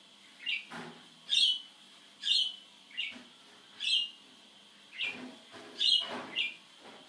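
A bird chirping over and over, about one short upward call a second, with a few soft knocks and rustles of nuts being handled.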